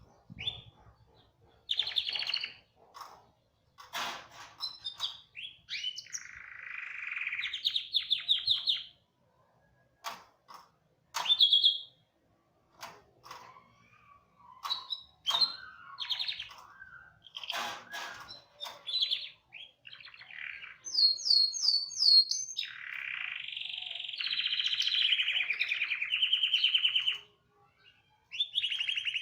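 Canary singing: varied phrases of sharp chirps and fast trilled rolls separated by brief pauses, with a long, rapid trill near the end.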